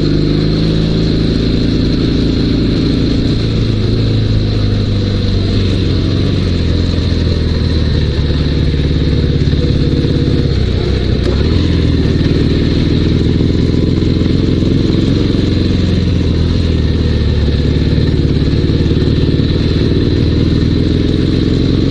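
Dnepr sidecar motorcycle's boxer-twin engine running on the move, its pitch rising and falling with engine speed.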